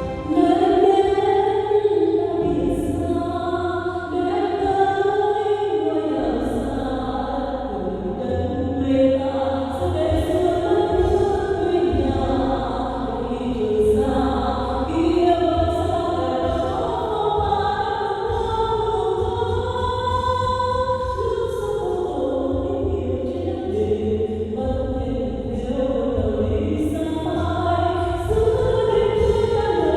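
Music: a choir singing a slow song with instrumental backing.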